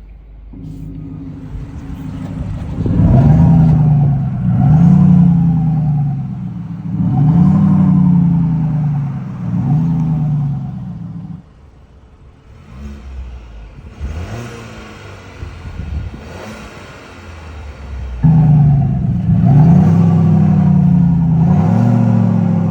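Synthesized exhaust note from an iXsound active electronic exhaust on a Geely Atlas, played through its speakers while the engine is revved in repeated rises and falls. About eleven seconds in, the generated note cuts out suddenly, leaving a quieter engine sound. About seven seconds later it cuts back in abruptly with more revving.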